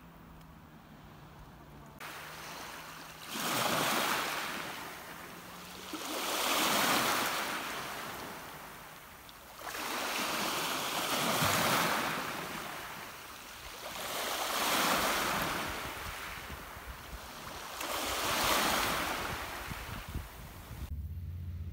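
Sea waves washing onto a beach, swelling and fading five times at about three to four second intervals. The sound starts about two seconds in and cuts off suddenly near the end.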